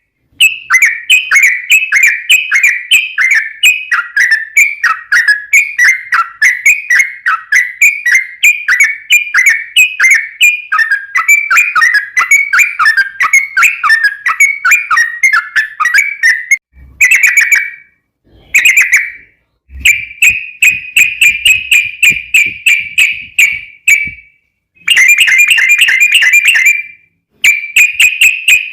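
Yellow-vented bulbul (trucukan) song: a long run of quick bubbling whistled notes, about two to three a second. After a short break it turns into longer, steadier trilled phrases with brief pauses between them.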